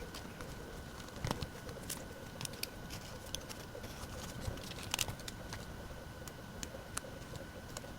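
Light, irregular clicks and taps of paper and stationery being handled on a desk during diary decorating, over a faint steady hiss with a thin high tone.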